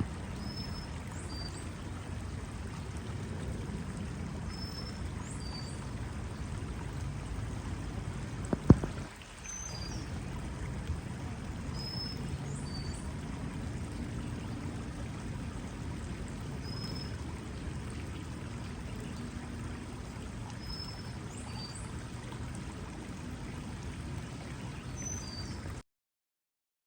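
Steady rush of flowing creek water, with a small bird repeating a short two-note high call about every four seconds. A single sharp knock about nine seconds in, and the sound cuts off abruptly near the end.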